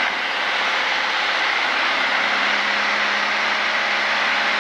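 Single-engine piston training aircraft's engine and propeller running steadily, heard as a dense drone inside the cockpit through the headset intercom, on final approach with full flaps. A low steady hum in the drone grows clearer about two seconds in.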